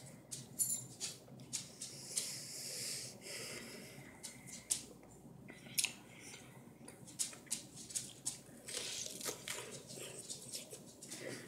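Person chewing raw pear: a run of short wet mouth clicks and crunching, with another bite into the pear about ten seconds in.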